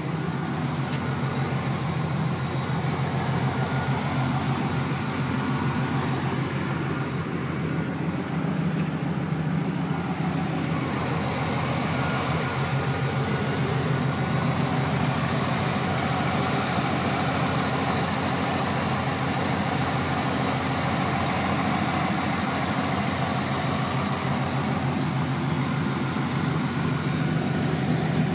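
1996 Camaro Z28's LT1 V8 idling steadily with a ticking from the valve train, which the owner wonders may need a valve adjustment.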